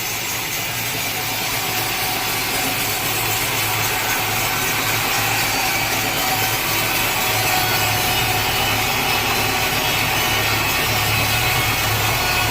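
Sawmill saw cutting steadily through a large teak log, with a steady low hum from the machine underneath.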